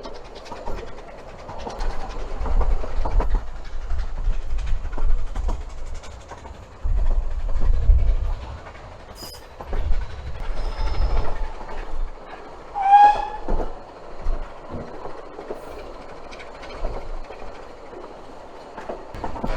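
Narrow-gauge steam train running, with a low rumble that swells and fades in surges and clickety-clack of wheels on rail joints. A short high whistle sounds about thirteen seconds in.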